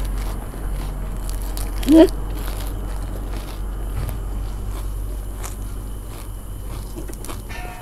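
Close chewing and crunching of crisp fried spring rolls wrapped in fresh leaves, over a steady low hum. A short rising squeak about two seconds in is the loudest sound.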